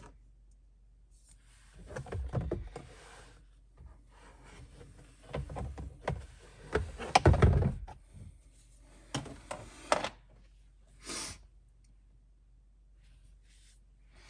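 Scattered knocks and clunks of plastic interior trim pieces in a 2016 Ford F-150's footwell being handled and pushed into place. The loudest group comes about halfway through.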